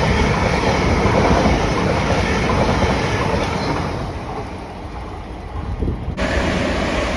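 Class 345 electric multiple unit passing on the main line, its running noise dying away from about four seconds in, with the sound changing abruptly about six seconds in.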